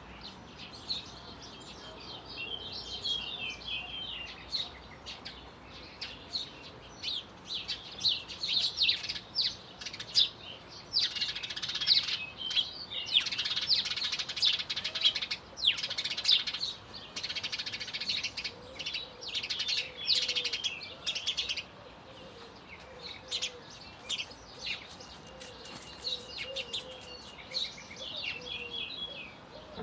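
Several songbirds singing and chirping over one another, busiest in the middle stretch. A dove gives a soft, repeated low cooing through the second half.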